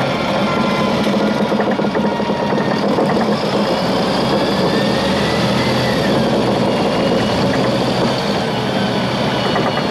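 Volvo 7700A articulated city bus's engine running steadily, with faint whines that glide up and down over it.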